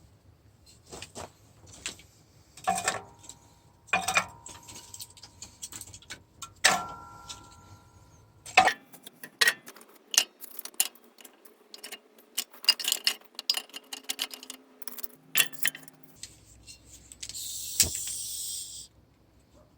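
Sharp knocks and clatters of wood being split and handled, the first few strikes ringing briefly, with a short hiss near the end.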